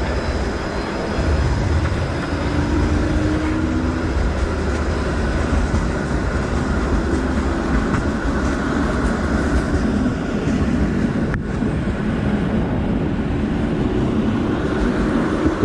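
Steady low rumble of wind on a chest-mounted action camera and road noise while riding a bicycle through city traffic.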